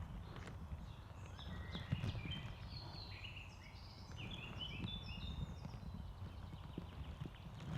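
A bird singing a rapid run of short chirping notes for several seconds, over a low, uneven rumbling noise.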